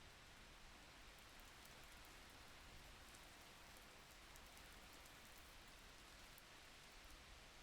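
Faint, steady rain: an even hiss with light, scattered drop ticks.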